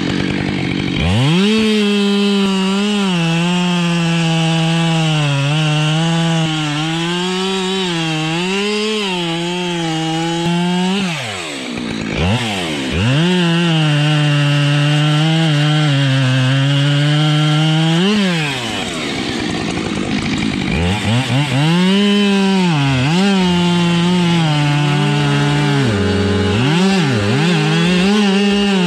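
Husqvarna 572 two-stroke chainsaw delimbing an ash trunk, running at high revs with its pitch sagging and recovering under load as it cuts through the branches. It eases off twice, about a third and two thirds of the way through, and then gives a run of quick throttle blips near the end.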